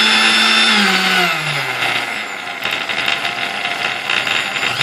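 Sunbeam Mixmaster Model 12 mixer motor running with the end of its armature left without thrust, so it runs noisy. About a second in it is switched off and the whine falls as it coasts down, followed by a rattling clatter. Near the end it starts again and spins up.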